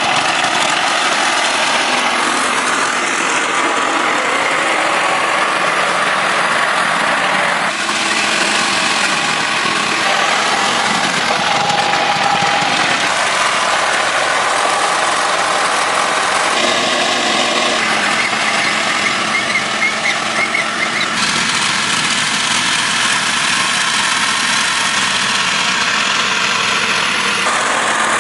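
A motor running steadily, its sound changing abruptly several times.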